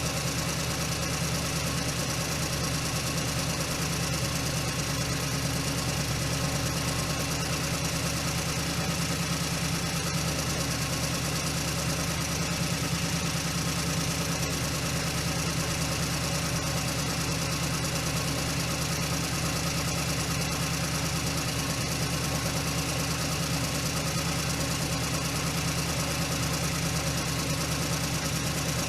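A steady mechanical hum that runs like an idling engine, with an even hiss over it. It does not change in pitch or level.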